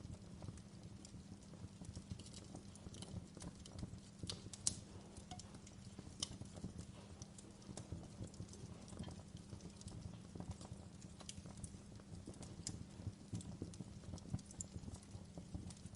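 Wood fire burning in a fireplace: irregular crackles and snaps over a steady low rumble of the flames, with one sharper pop about five seconds in.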